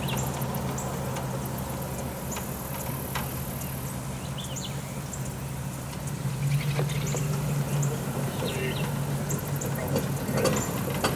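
Engine idling with a steady low hum, a little louder for a moment in the middle, with faint short chirps scattered over it.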